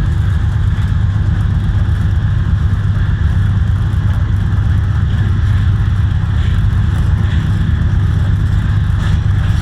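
Steady low rumble of the Khyber Mail passenger train running at speed, with a few faint clicks from the wheels.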